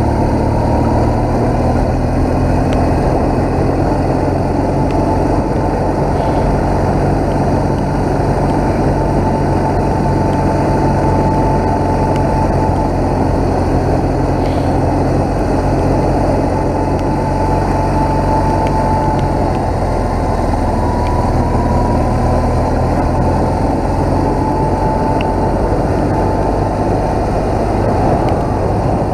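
BMW motorcycle being ridden at a steady pace: the engine runs evenly, its pitch holding nearly level, under a constant rush of wind noise.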